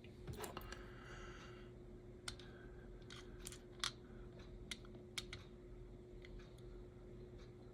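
Scattered small clicks and taps of tiny parts and hand tools handled on a workbench, with a faint steady hum underneath.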